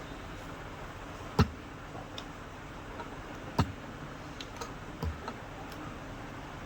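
A few sharp, irregular knocks and clicks, as of hand work on a ceiling fan's parts. Two loud knocks come about two seconds apart, then a softer pair and light ticks, over a steady low hum.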